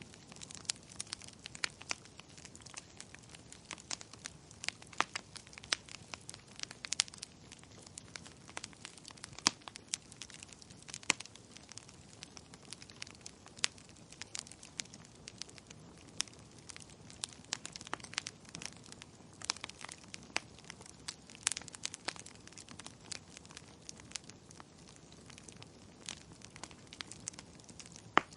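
Wood fire in a fireplace crackling, with frequent irregular sharp pops over a steady low hiss; one louder pop near the end.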